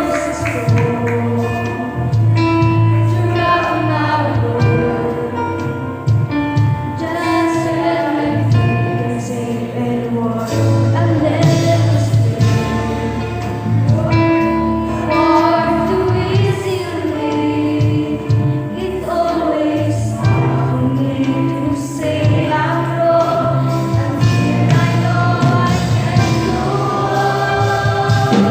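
A youth choir singing a gospel song with live band accompaniment, including a steady bass line.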